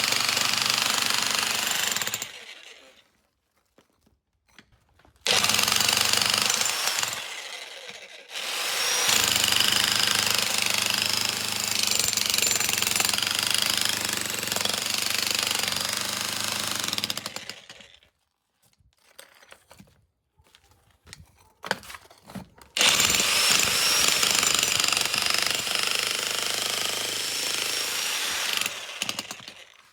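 1700 W electric demolition hammer (DESHI Z1G-DS-65C) with a point bit breaking up concrete. It runs in four bursts with short pauses between them; the longest, in the middle, lasts about nine seconds.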